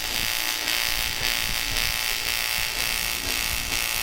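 AC TIG welding arc on aluminium buzzing steadily, with a hiss.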